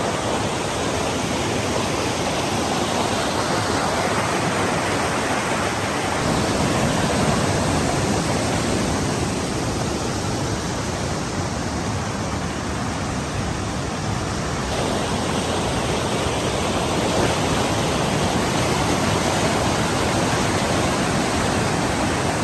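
Steady rush of a fast, cold mountain river pouring over rocks, loud and unbroken.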